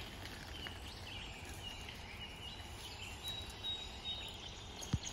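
Outdoor ambience: small birds give short, high chirps over a steady background hiss, with a thin high whistle held for about two seconds in the second half. There is one sharp click near the end.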